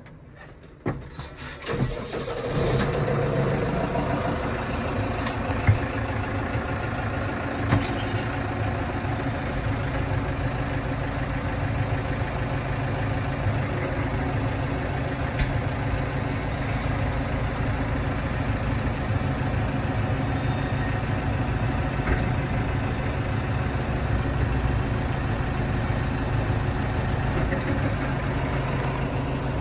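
New Holland Powerstar 75 tractor's four-cylinder diesel engine cranked and started, catching about two seconds in, then idling steadily.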